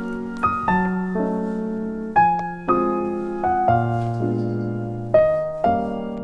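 Background music: a gentle piano melody with notes struck about every half second, each ringing and fading.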